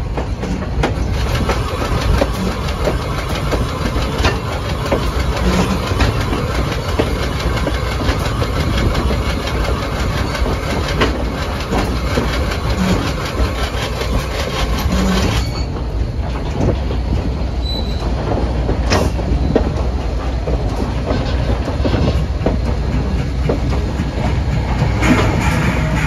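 Railroad train rolling along the track, its wheels clicking steadily over the rail joints. The high hiss drops away about halfway through.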